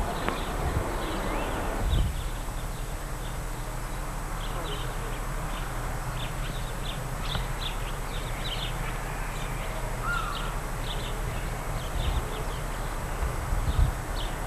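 Small garden birds chirping in short, repeated calls, over a steady low rumble with a few low thumps.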